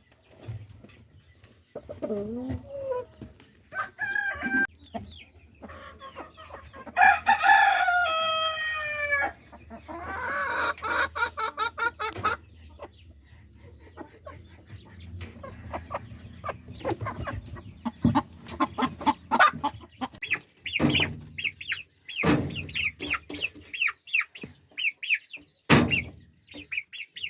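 Caged chickens clucking, with a rooster crowing one long call about seven seconds in. Rapid short clucks come near the end, with a few sharp knocks.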